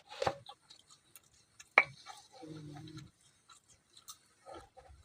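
Close-miked eating sounds: scattered small clicks of chewing and cutlery, with one sharp clink of a utensil on a dish a little under two seconds in. A short low hum is heard around the middle.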